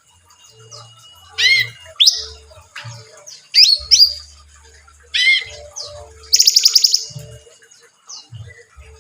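Cucak rante songbird calling: a string of loud, short, arched whistled notes and upswept calls. About two-thirds of the way through comes a rapid chattering run of about ten notes.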